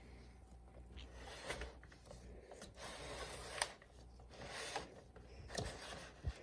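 Faint scattered clicks and rustling, like something small being handled, over a soft low hum.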